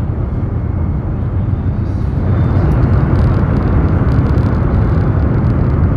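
High-speed train running noise heard inside the passenger car: a steady low noise that grows louder and brighter about two seconds in as the train enters a tunnel.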